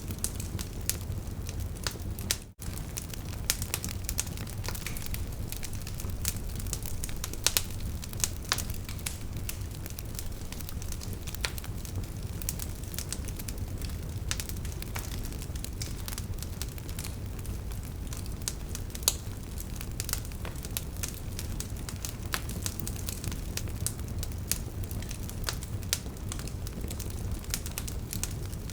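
Wood fire burning with the logs crackling: a steady low rumble of flames under frequent sharp, irregular pops and snaps. The sound drops out for a split second about two and a half seconds in.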